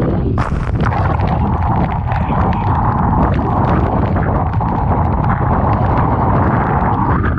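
Typhoon wind buffeting the microphone with a heavy low rumble, while a storm wave crashes about half a second in and its water rushes and hisses for several seconds before stopping near the end.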